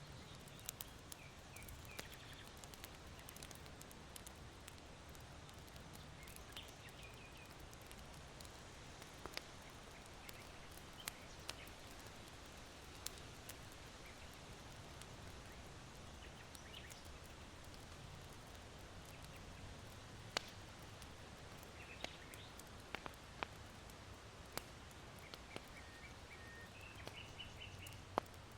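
Charcoal embers in an irori hearth crackling softly, with scattered sharp pops at irregular intervals. Small birds chirp briefly now and then in the distance, more often near the end, over a low steady rush of wind.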